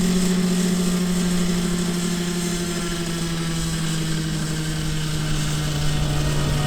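Nitro glow engine of a Thunder Tiger Raptor 50 RC helicopter running steadily, its pitch sinking slowly.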